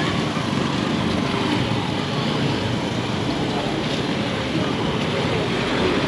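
Steady street traffic noise on a busy road, with vehicles passing and voices in the background.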